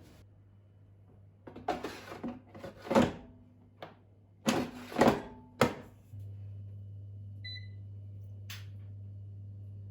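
Several sharp knocks and clatters of kitchenware being handled, then a household appliance starts up about six seconds in and runs with a steady low hum, with one short beep soon after it starts.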